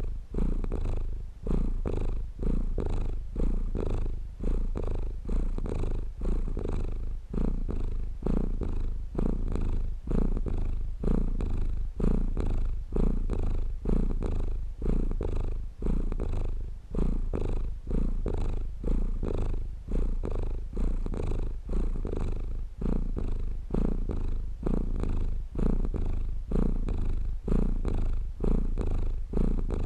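A domestic cat purring close up, a steady low rumble that swells and dips with each breath, about one to two breath cycles a second.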